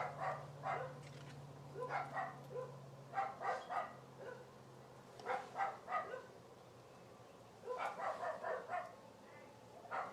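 Dogs barking in about five short bouts of several quick barks each, with pauses between, faint.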